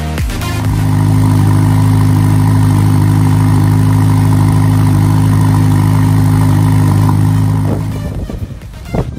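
Ferrari Roma's twin-turbo 3.9-litre V8 idling steadily through its exhaust, an even hum that holds one pitch and fades out near the end.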